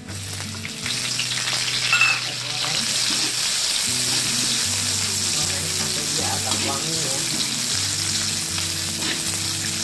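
Sliced pork lap cheong and chopped garlic sizzling in hot oil in an aluminium wok, stirred and scraped with a metal spatula. The sizzle jumps up about a second in as the sausage goes into the oil, then holds steady.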